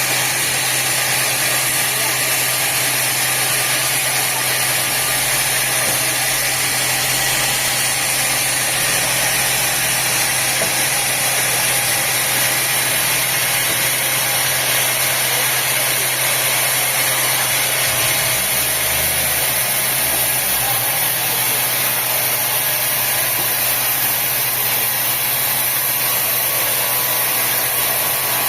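Sawmill machinery running steadily: a constant low hum under a loud, even noise, with no change in pace.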